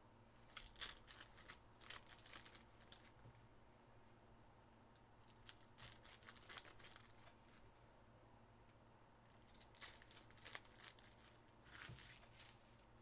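Faint crinkling and tearing of trading-card pack wrappers and rustling of cards being handled, in four short spells.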